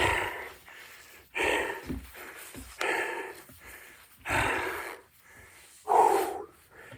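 A man breathing hard and loud, one heavy breath about every one and a half seconds, out of breath from doing burpees. Short low thumps fall between the breaths.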